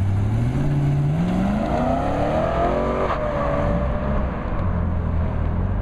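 BMW E92 M3's 4.0-litre V8 accelerating hard from a standing start. The engine note climbs steadily for about three seconds, drops sharply at an upshift, then carries on at a lower, steadier pitch.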